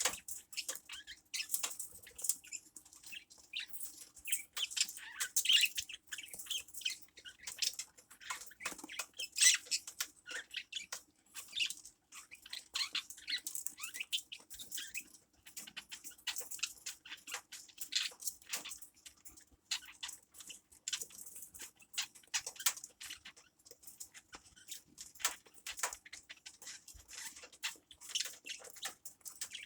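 Small birds chirping continuously, with many short, rapid high chirps overlapping one another.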